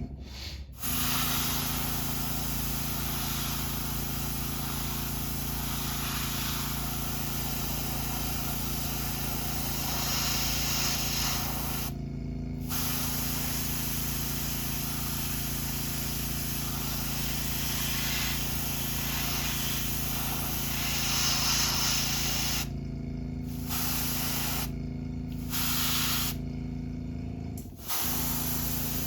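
Airbrush spraying candy blue paint onto a crankbait in a steady hiss, stopping briefly about twelve seconds in and a few times near the end as the trigger is let off. A steady low hum runs underneath.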